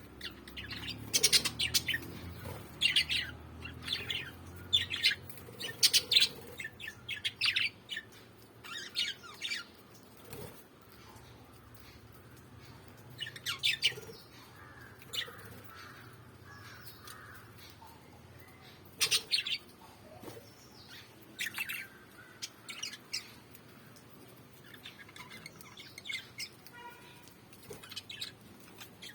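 Small pet parrots chirping and squawking in short, sharp calls that come in bursts with pauses between, busiest in the first few seconds.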